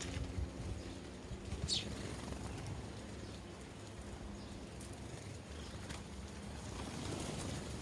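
A single short sparrow chirp sliding down in pitch, about two seconds in, over soft low knocks and a faint steady hum.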